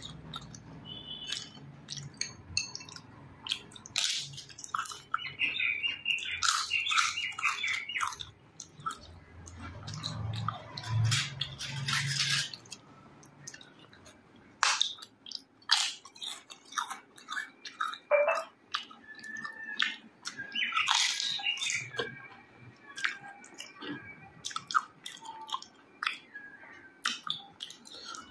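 Close-up chewing and mouth sounds of a person eating rice with spicy chicken curry, a string of irregular clicks and snaps.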